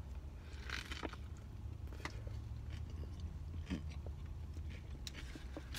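A man biting into a fish taco in a soft flour tortilla and chewing it, faint mouth sounds over a steady low hum.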